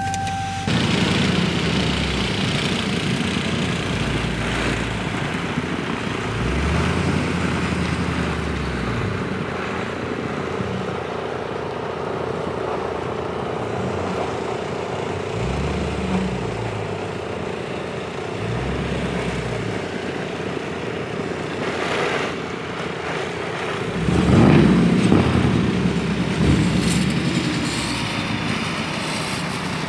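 A Dodge Charger Scat Pack's 392 (6.4-litre HEMI) V8 running as the car moves off and drives through deep snow. The engine note swells and falls away several times, loudest about 25 seconds in.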